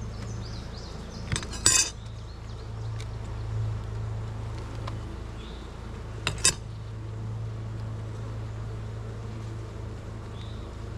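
Honeybees buzzing steadily in a low, even hum around an opened hive. Two sharp clinks ring out, about two seconds in and again about six seconds in.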